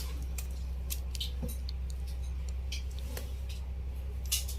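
Scattered light clicks and small handling noises of wires and battery-pack parts being worked by hand, over a steady low hum.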